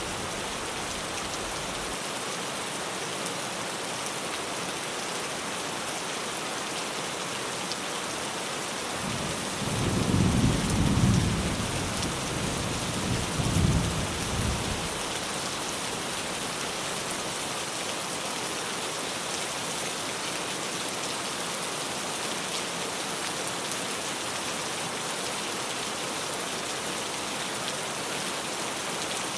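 Steady heavy rain drumming on a tin roof, with a low rumble of thunder about a third of the way in that swells twice before fading.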